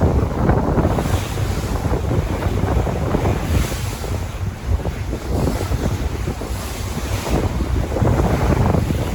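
Sea waves washing in and out, swelling about three times, with wind buffeting the microphone as a heavy low rumble.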